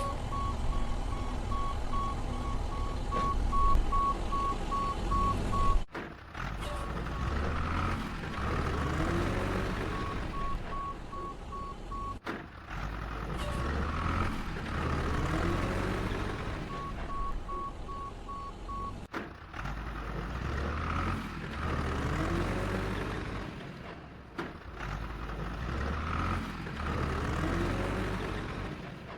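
Heavy vehicle engine running with a reversing alarm beeping, steadily at first and then in short spells. The whole sound repeats about every six seconds.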